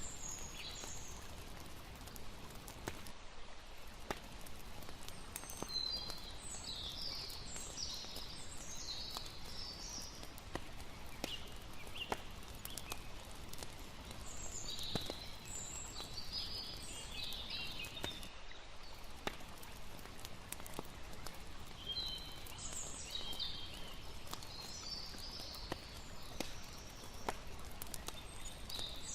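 Layered night ambience: a campfire crackling with scattered small pops over a steady wash of water, with clusters of high chirping calls returning every several seconds.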